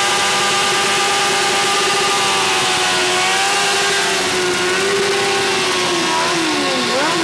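Motorcycle engine held at high revs on the spot, its exhaust headers glowing red-hot from the sustained load. The revs hold steady at first, then waver, drop and climb again near the end.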